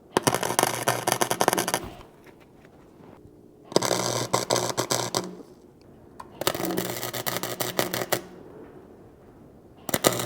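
MIG welder laying stitch welds on car body sheet metal: four short bursts of dense crackling, with a low transformer hum under each. The welder blames the weld-through primer for popping and erratic welding, as if from a bad ground.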